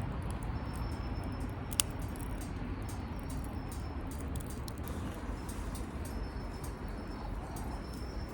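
Wood fire burning in a Firebox stove: a steady low noise with a single sharp pop about two seconds in.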